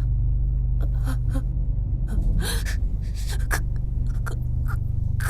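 A series of short, sharp gasping breaths, the strongest about two and a half seconds in, over a steady low rumble of a train carriage in motion.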